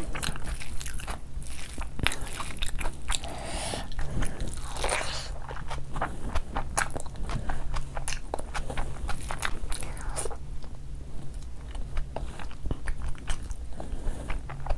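Close-miked mouth sounds of eating fried rice by hand: biting and chewing with crunches and many small wet clicks. A steady low hum runs underneath.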